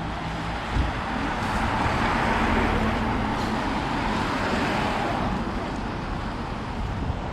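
A road vehicle passing close by, its tyre and engine noise swelling to a peak a couple of seconds in and then fading away. A brief thump comes just before it.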